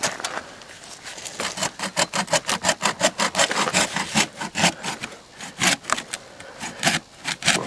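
Hand saw cutting through a log in quick, short back-and-forth strokes, about three or four a second. The strokes pause for a moment after about six seconds and start again near the end.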